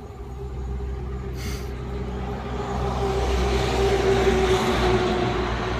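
A motor vehicle's engine running with a steady low hum, its rushing noise swelling to a peak about four to five seconds in and then easing, as of a vehicle passing. There is a short hiss about a second and a half in.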